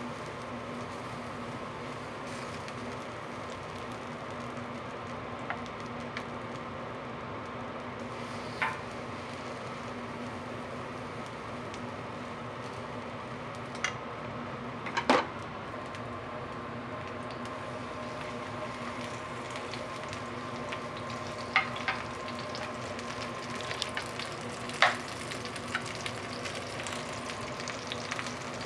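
Korean savory pancakes (jeon) frying in oil on a griddle: a steady sizzle with a faint steady hum underneath, broken by a few sharp utensil clinks, the loudest about fifteen seconds in.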